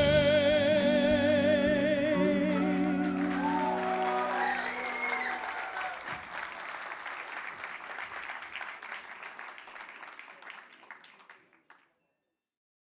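A singer holds the final note with vibrato over the band's closing chord. Then the audience applauds, with a few shouts, and the applause fades away and cuts off shortly before the end.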